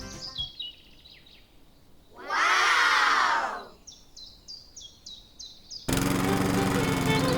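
Short, high, falling chirps like bird calls, repeated at a few per second, with a loud noisy sweep lasting just over a second in the middle. Near the end, music starts suddenly.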